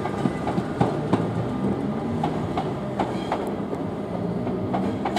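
Electric multiple-unit train running over the points and rail joints: its wheels click irregularly, a few times a second, over a steady low hum.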